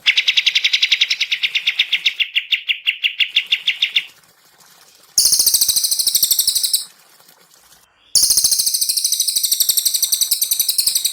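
Songbird trills, each a rapid run of many notes. A lower trill lasts about four seconds. After a sudden break come two much higher, shriller trills, each cut off abruptly.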